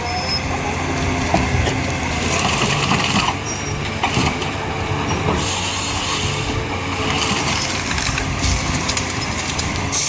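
Heavy forestry harvester at work: its engine running steadily under wood crunching and cracking, with a burst of hiss about halfway through and another at the end.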